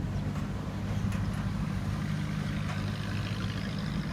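A motor vehicle engine running with a steady low hum, with a few faint clicks over it.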